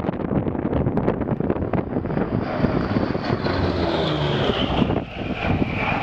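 P-38 Lightning's twin Allison V-1710 V-12 engines on a pass, growing louder from about two seconds in, with the pitch falling as it goes by. Wind buffets the microphone, mostly early on.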